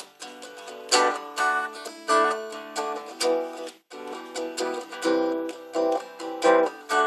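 Guitar strumming chords in a steady rhythm, the instrumental intro before the singing, with a brief stop a little past halfway.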